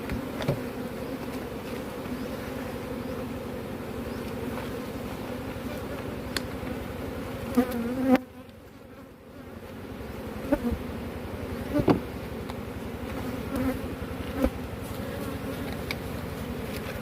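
Honeybees buzzing in a dense swarm at a large honeycomb: a steady, full hum that drops away for about two seconds midway and then builds back. A few short knocks sound over it.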